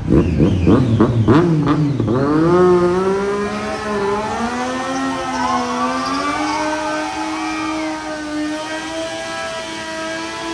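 A vehicle engine revving in quick throttle blips for about two seconds, then climbing in pitch and holding steady revs as it slowly gets quieter.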